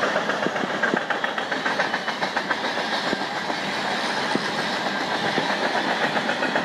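Cars of a CN grain train rolling past, wheels clicking rapidly and rhythmically over the rail joints over a steady rolling noise.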